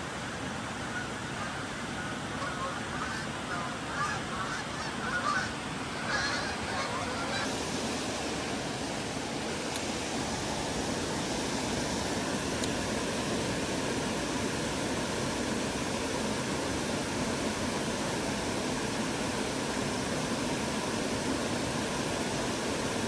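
Steady rush of flowing creek water, with a series of honking bird calls over it during the first several seconds.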